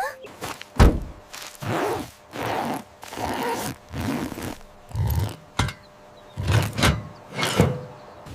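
A string of cartoon sound-effect thunks and knocks, about a dozen spread across several seconds, with a few sharp clicks among them.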